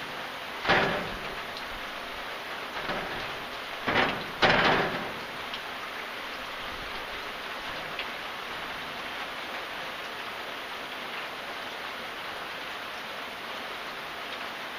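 Steady rainfall, with four brief louder surges of splashing in the first five seconds before it settles to an even patter.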